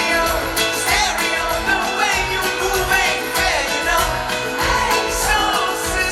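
Live pop-rock band playing a song with a lead vocal over a steady drum beat.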